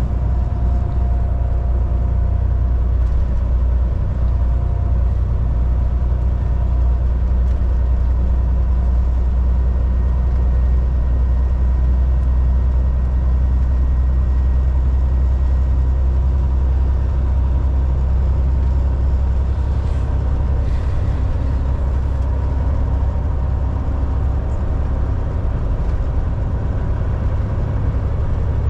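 Volvo VNL 760 semi truck cruising at highway speed: a steady low engine drone with tyre and road noise and a faint steady whine.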